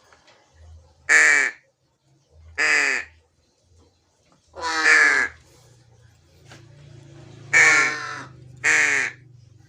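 Black crow cawing five times, harsh calls about half a second each, spaced one to two seconds apart.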